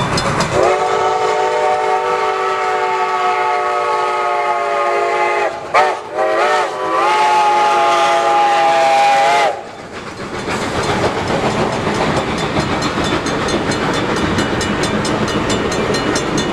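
Chime whistle of Reading & Northern steam locomotive No. 2102, a chord of several tones. It sounds one long blast, then a couple of short toots and another long blast ending about ten seconds in. After that comes the steady noise of the train rolling past with a fast regular clicking.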